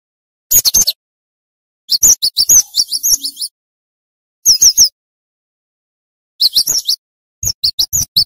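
Cinereous tit (gelatik batu) singing in short, fast bursts of three or four sharp, falling notes. The bursts repeat every second or two, with silence in between.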